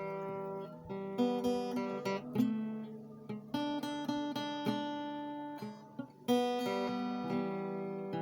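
Background music: acoustic guitar plucking and strumming chords, with notes starting and decaying in a loose rhythm.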